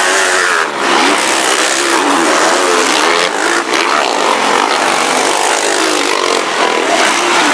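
Several motocross bikes' engines racing, their pitch rising and falling over one another as the riders work the throttles.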